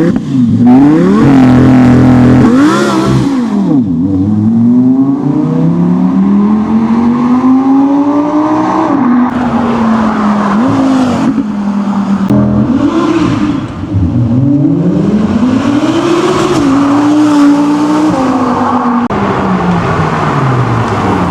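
Audi R8's 5.2-litre naturally aspirated V10 launching and accelerating hard. The engine note climbs in long rising glides, then drops sharply at each gear change, several times over.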